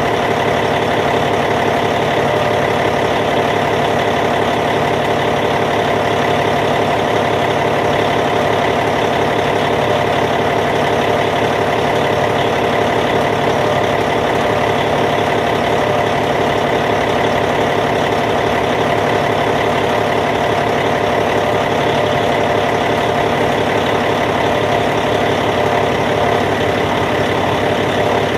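Caterpillar C15 inline-six diesel engine of a D8T bulldozer idling at a steady, even speed.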